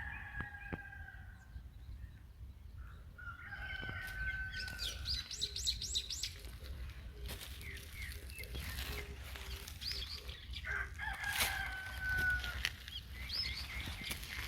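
A rooster crowing several times, just at the start, about four seconds in and again about eleven seconds in, with small birds chirping quickly in between. A steady low rumble runs underneath.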